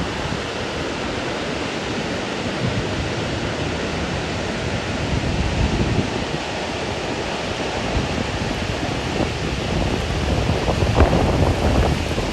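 Steady rush of falling water from a waterfall, with low gusts of wind buffeting the microphone, strongest about eleven seconds in.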